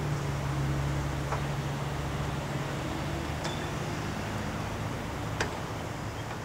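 CSX freight train's cars rolling away, a steady low rumble with three short sharp metallic clinks spaced out across it.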